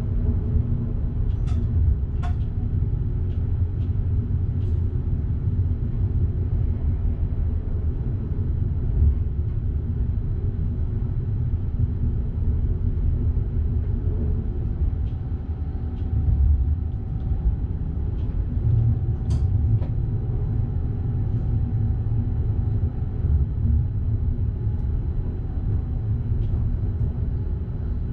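Electric passenger train running, heard from the driver's cab: a steady low rumble with scattered light clicks, and a faint steady whine through the middle stretch.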